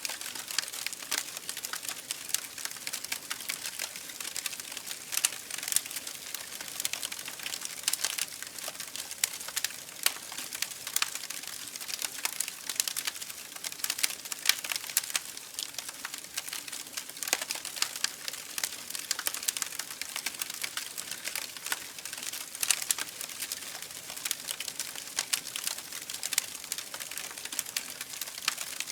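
Campfire burning, wood crackling and popping in a steady stream of sharp snaps, with a few louder pops scattered through.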